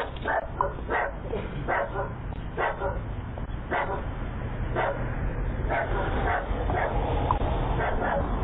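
A dog barking repeatedly in short, separate barks, picked up by a doorbell camera's microphone, which gives a thin, band-limited sound.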